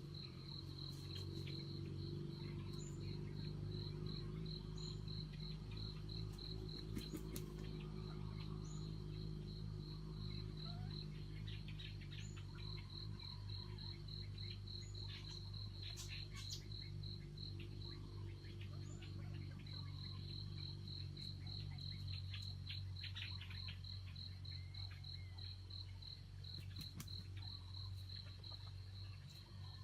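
A cricket chirping in an even, rapid high-pitched pulse, about three or four chirps a second, pausing briefly twice. Faint short bird chirps and a low steady hum sit beneath it.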